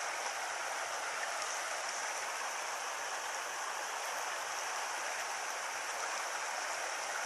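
Small stony stream running, a steady rush of water over rocks.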